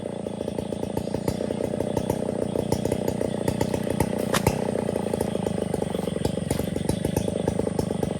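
Stihl 070 chainsaw's large two-stroke engine running steadily at high speed, its firing strokes fast and even, with one sharp click about halfway through.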